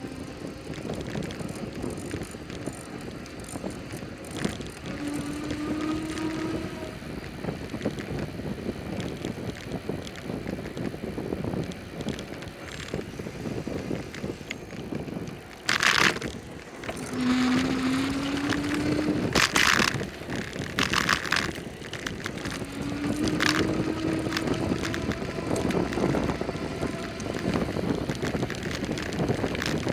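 Riding a bicycle: steady wind on the microphone and road noise, with a few short rising tones and several sharp bursts in the second half.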